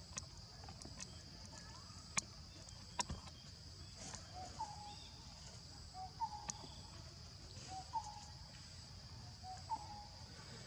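Outdoor night-insect chorus: a steady high-pitched drone of insects such as crickets or cicadas. Over it, an animal gives a short two-note call that repeats about every second and a half, and a few sharp clicks come about two and three seconds in.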